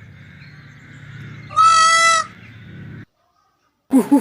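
An animal's loud call, a single steady-pitched honk lasting under a second, about a second and a half in, over a low background rumble. The sound cuts to silence about three seconds in, and a quick run of rising chirps begins at the very end.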